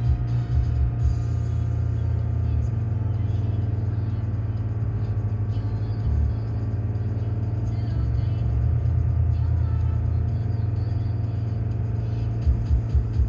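2007 Audi TT 2.0 TFSI turbocharged four-cylinder engine running steadily under load with a strong low drone. Near the end it turns into a regular loud pulsing. It is held around 3500 rpm, where the owner finds it reliably misfires under load.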